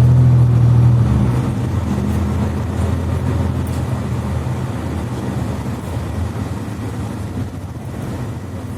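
Mercedes-Benz Citaro C2 articulated bus's diesel engine and Voith automatic gearbox heard from inside the cabin: a low engine drone under load that drops about a second in, then slowly fades as the bus rolls on, with road noise beneath.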